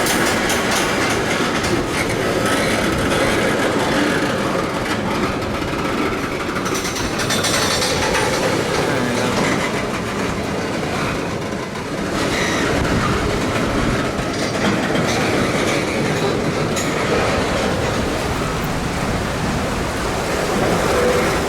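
Canadian Pacific freight train cars rolling slowly past, wheels clacking over the rails in a steady, continuous run.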